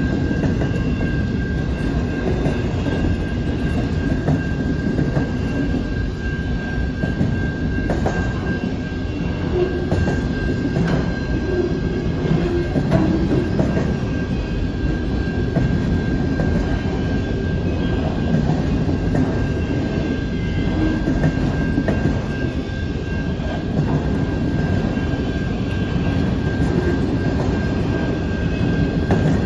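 Freight train of autorack cars rolling slowly past, with a steady rumble of wheels on rail and a thin steady high tone above it, probably wheel squeal, plus a few faint clacks over the rail joints.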